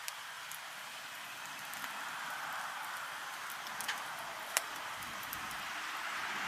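Wood campfire burning: a steady crackling hiss with a few sharp pops, the loudest about four and a half seconds in.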